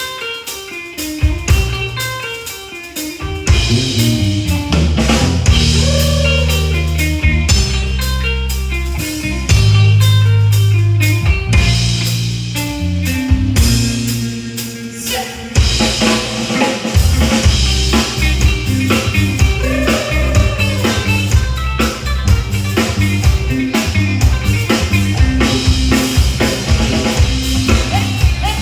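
Live band playing an instrumental passage with no singing, driven by a drum kit on snare and bass drum over a moving bass line. The drum hits are dense and steady.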